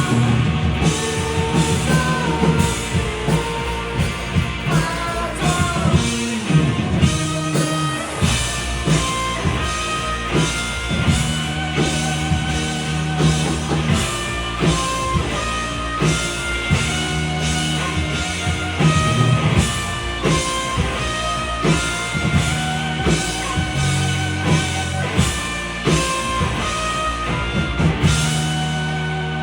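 Rock band playing live: drum kit beating steadily under electric guitars, with sung vocals. Near the end the drums stop and a held chord rings out, fading away.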